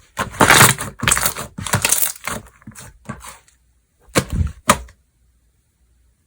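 Slime being worked by hand, giving a run of crackling, popping bursts, with two sharp pops a little after four seconds and then quiet.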